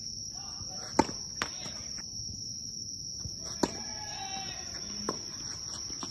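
Tennis balls struck by rackets and bouncing on the court: sharp pops about a second in, twice more soon after and past halfway, the loudest about a second in and past three and a half seconds, over a steady high-pitched buzz.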